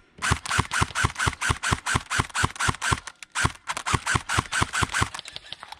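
Airsoft gun firing rapid shots, about eight a second, in two long strings with a brief pause about three seconds in.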